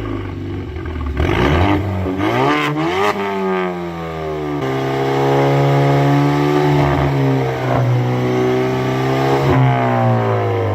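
Camaro 2.0-litre turbocharged four-cylinder engine, breathing through a catless downpipe and a single resonator, revved up once and let fall. It then rises again and is held steady at high revs for about five seconds, for a sound-level meter reading, before dropping back toward idle near the end.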